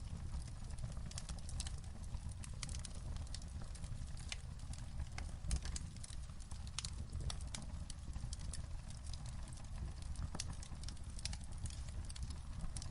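Wood fire crackling in a fireplace: irregular sharp pops and snaps over a steady low rumble, with one louder pop midway.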